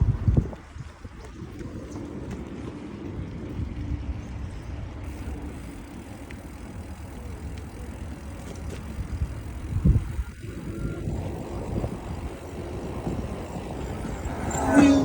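Steady wind and road noise from a moving bicycle, buffeting the microphone, with low gusts just after the start and about ten seconds in, and a short louder sound just before the end.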